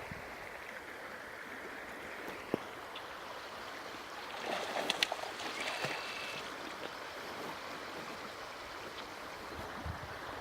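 A river's current rushing steadily over the streambed. A sharp click comes about two and a half seconds in, and a short cluster of louder knocks and clicks follows around the middle.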